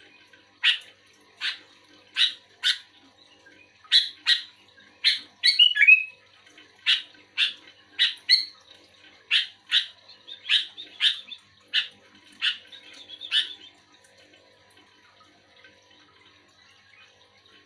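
Sooty-headed bulbul calling: a run of short, sharp chirping notes, some single and some in quick pairs, about one or two a second. The calls stop a few seconds before the end.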